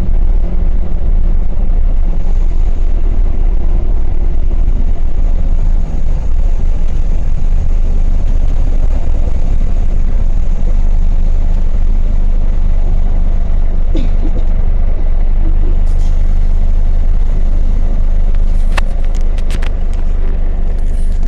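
Moroccan ONCF train running along the track: a loud, steady, heavy rumble, with a few sharp clicks in the second half.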